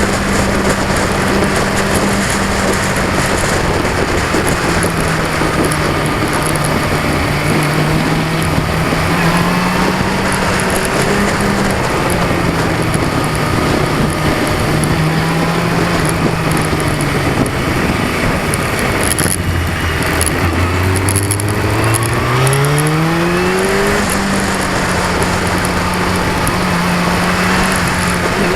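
A 2002 Yamaha R6's 600 cc inline-four running on the move, its pitch wandering with the throttle. About twenty seconds in it drops low, then climbs steadily as the bike accelerates. Heavy wind and camera-vibration noise lies over it throughout.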